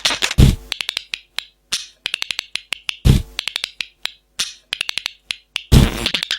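Small cage birds chirping in rapid, short clicky notes, broken by three heavy low thumps.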